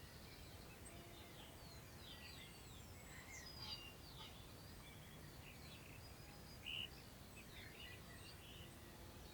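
Faint birdsong from several small birds, scattered chirps and short trills, one a little louder about two-thirds of the way in, over a low steady wind rumble.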